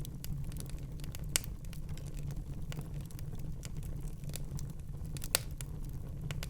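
Fire crackling in a fireplace: a steady low rumble of the flames under a stream of small irregular crackles, with two sharper, louder pops, one about a second and a half in and one about five seconds in.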